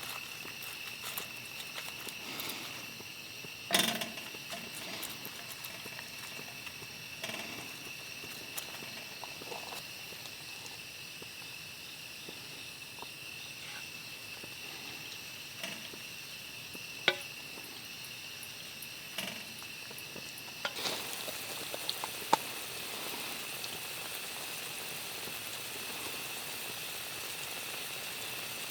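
Squid pajeon frying in a pan, with scattered clicks and knocks of cooking utensils; about two-thirds through, a louder, steady sizzle sets in.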